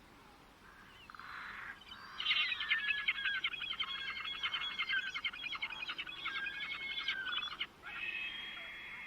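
A songbird singing a long, fast run of short, rapid notes for about five seconds, followed after a brief pause by a steadier held note near the end.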